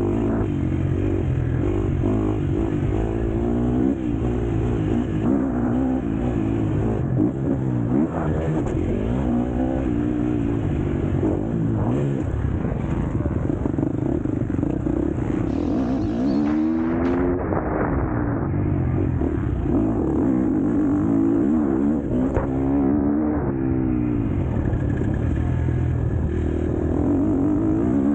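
KTM SX-F four-stroke motocross bike's engine running hard in a race, revving up and down continuously with repeated rising and falling sweeps in pitch as the throttle opens and closes.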